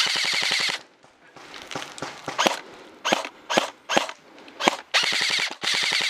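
Modded M4-style airsoft electric rifle (AEG) firing full-auto bursts, its motor and gearbox cycling at a rapid even rate. There is one short burst at the start and two more near the end, with a handful of single sharp shots in between.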